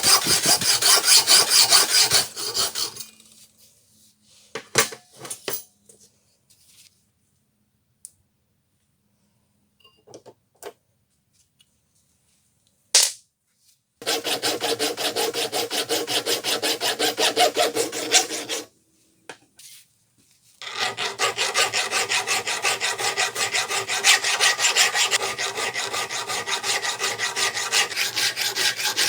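Hand filing of metal: quick, even back-and-forth scraping strokes in three stretches, broken by a long pause with a few light clicks and one sharp knock near the middle, and a short pause later.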